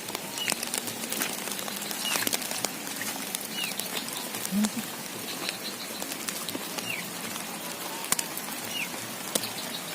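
A small bird repeating a short, high call that slides downward, once every second or two, over a steady outdoor hiss with scattered light ticks.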